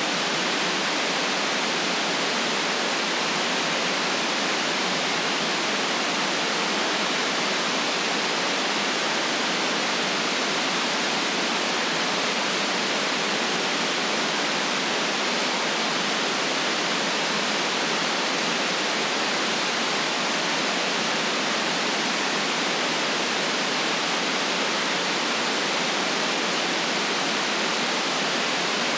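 Steady synthesized white noise: an even, unchanging hiss with no deep rumble beneath it.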